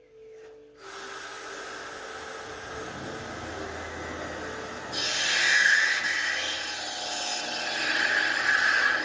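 Electric drill running and boring holes in the steel of a metal crate. About a second in the motor starts and runs steadily; from about halfway it bears down harder and the bit squeals as it cuts, louder.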